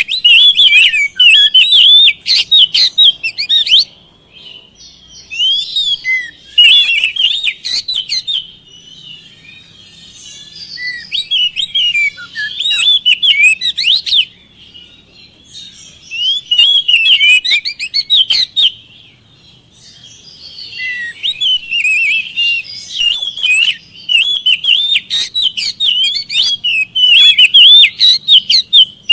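Oriental magpie-robin (kacer) singing loud, rapid, varied whistled phrases in bouts of a few seconds with short pauses between them, the longest bout near the end. It is a lure song, the kind played to coax a quiet magpie-robin into answering.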